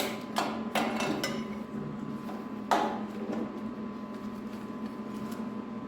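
A few sharp metallic clinks and knocks, several in the first second and one more a little under three seconds in, from tools and metal parts being handled, over a steady low hum.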